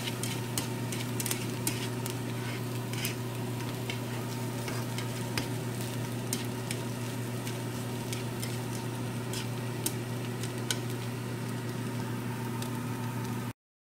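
Stir-fried ramen noodles and vegetables sizzling in a nonstick frying pan as they are stirred with wooden chopsticks, which click against the pan every so often. A steady low hum runs underneath, and the sound cuts off abruptly near the end.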